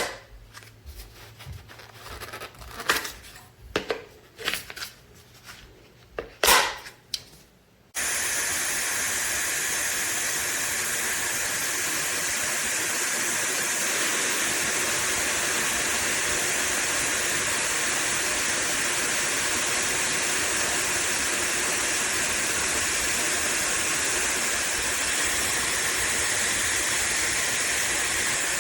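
Scattered clicks and knocks from handling for the first several seconds. About eight seconds in, a high-speed hair dryer switches on abruptly and blows with a steady, even rush of air, strongest in the upper range.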